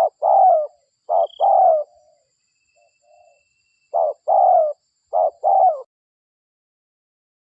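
Spotted dove cooing: paired coos, a short note then a longer falling one, repeated in two runs with a short pause between them, stopping about six seconds in. It is a lure-call recording played to draw other spotted doves in.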